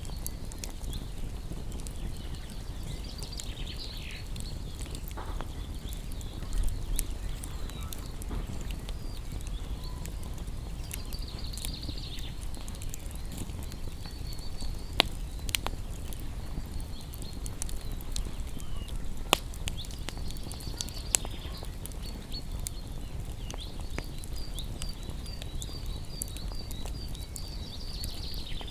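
Wood fire crackling steadily with a few sharp pops, while small birds chirp high, with a quick run of repeated notes near the end.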